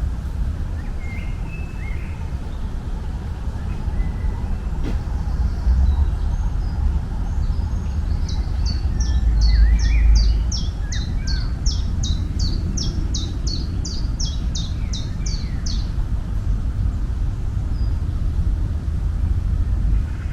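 Songbird singing a long series of repeated high notes, about three a second for some eight seconds, with scattered short chirps from birds around it. Under it runs a steady low rumble.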